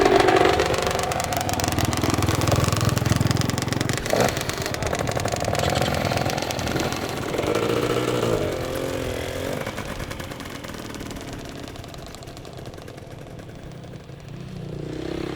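Enduro dirt bike engine revving hard, its pitch rising and falling with the throttle, loudest at the start and fading away over the second half. A sharp knock sounds about four seconds in.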